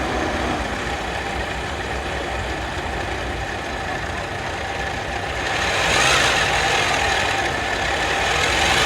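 Toyota RAV4 engine idling, then revved briefly twice, about halfway through and near the end, with a whine that rises and falls in pitch with the revs. The mechanic puts the noise down to the alternator, not the battery.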